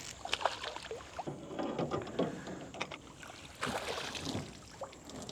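Irregular light knocks, clicks and rustles of a just-caught redfish being handled aboard a small fishing boat, over a faint steady hiss.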